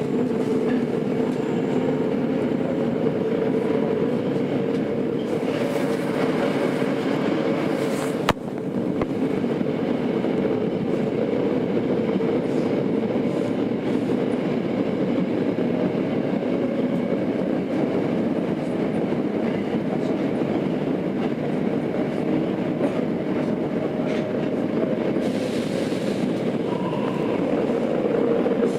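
Running noise heard inside a Tokyo Metro 02 series IGBT-inverter subway car on the move: a steady rumble of wheels on rail with a faint, slightly wavering tone. A single sharp click comes about eight seconds in.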